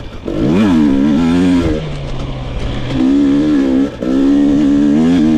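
2022 GasGas EX 250's two-stroke engine revving under throttle: the pitch climbs quickly about half a second in, then holds high in long pulls, broken twice by short drops as the throttle is rolled off and back on.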